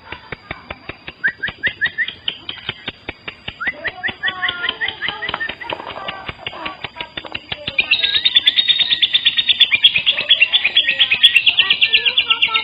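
Lovebirds chattering in rapid strings of short, high chirps. About eight seconds in, this builds into a loud, dense, continuous trill.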